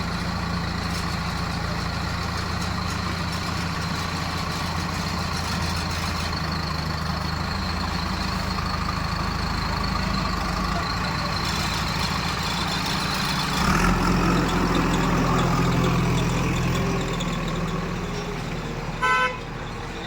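Heavy diesel machinery engine running steadily, working harder and louder for a few seconds past the middle, then easing off. Near the end a vehicle horn gives one short beep.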